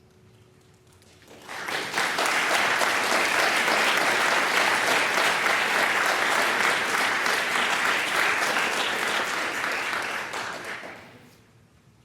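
Congregation applauding: the clapping starts about a second and a half in, holds steady, and dies away near the end.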